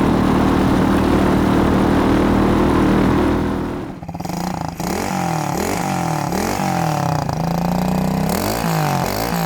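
Single-cylinder pit bike engine running steadily. About three and a half seconds in it gives way to electronic music with a wobbling, swooping bass line.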